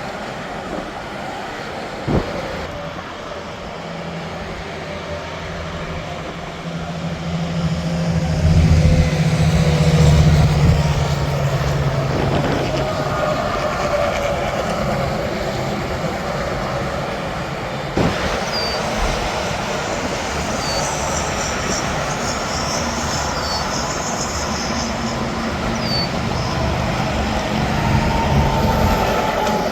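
Steady interstate traffic with heavy trucks going by. The drone of a passing truck's engine swells to its loudest about eight to eleven seconds in and then fades back into the traffic noise. Short high chirps repeat through the second half.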